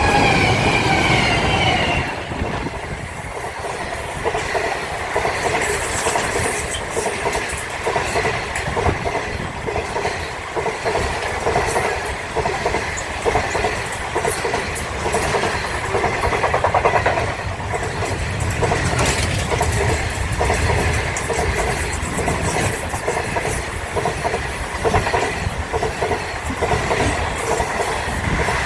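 A train running along the track, its wheels clattering over the rails, with a falling whine in the first two seconds.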